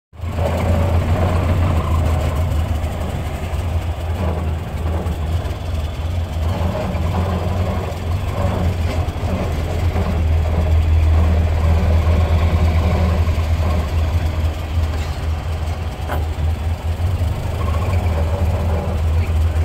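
Antique car's engine running at low road speed, heard from inside the cabin as a steady low drone with road and body noise over it.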